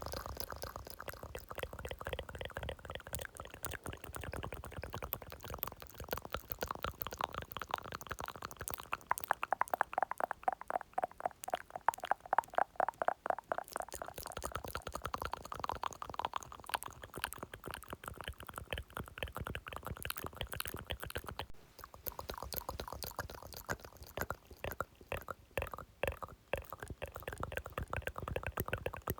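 Close-miked ASMR mouth sounds: rapid wet clicks and smacks, denser and louder around the middle.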